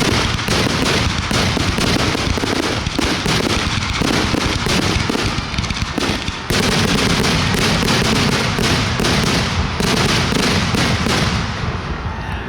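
Fireworks going off in a dense, continuous barrage of rapid bangs and crackling, getting suddenly louder about halfway through and easing off near the end.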